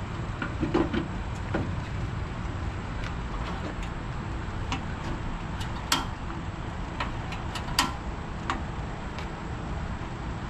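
Steady low background rumble with scattered light clicks and a few sharper knocks, the loudest about a second in, near six seconds and near eight seconds.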